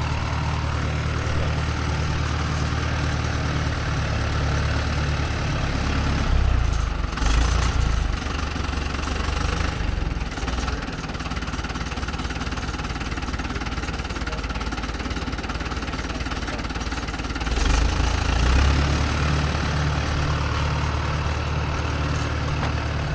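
Tractor engine running steadily at low revs, revved up twice, briefly about six seconds in and again about eighteen seconds in, as it is driven onto a trailer.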